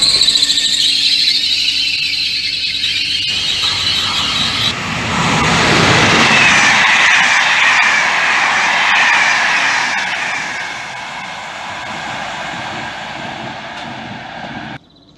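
Passenger trains on an electrified line: first a train's high-pitched wavering wheel squeal, which stops abruptly after about five seconds. Then a rake of Corail passenger coaches rolls past with a loud rumble and a lower squeal falling in pitch, fading away and cutting off sharply near the end.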